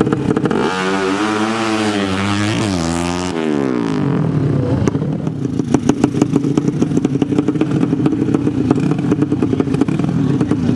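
Drag-racing motorcycle engines: one runs at steady revs throughout, while from about a second in another engine is heard for about three seconds, its pitch rising and falling.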